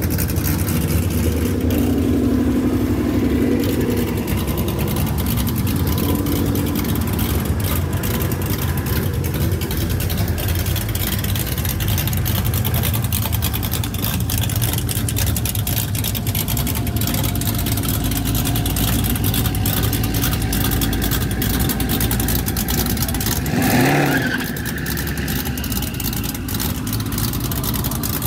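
Twin-turbo 5.0 Coyote V8 of a 2019 Mustang GT idling with a deep exhaust rumble, with one quick rev near the end.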